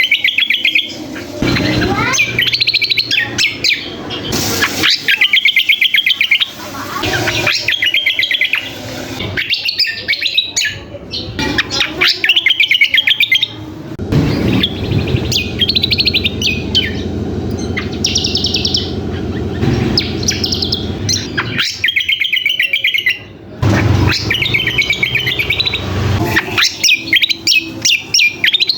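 A small songbird singing short, fast, rattling trill phrases, repeated every second or two, in a song likened to the sikatan londo flycatcher's. A low buzzing runs under it for several seconds in the middle.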